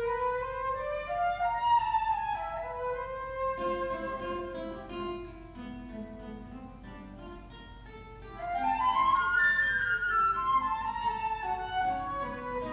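Flute and guitar duo playing: the flute carries a melody over plucked guitar notes. The music softens in the middle and swells again with a rising flute phrase about eight and a half seconds in.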